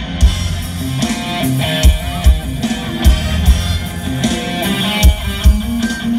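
A live Isan band plays an instrumental passage through a PA: an electric guitar picks a stepping melody over heavy kick drum and bass.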